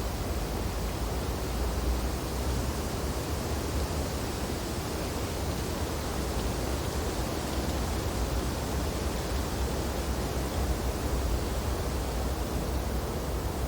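Winter wind blowing through tree branches during snowfall: a steady rushing noise over a deep low rumble, with no distinct gusts or breaks.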